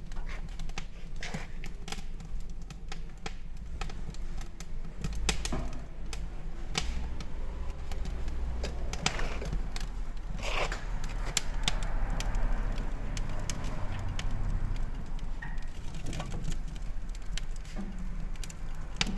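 Irregular light metal clicks and knocks, as of parts of a cast iron wood stove being handled, over a steady low rumble.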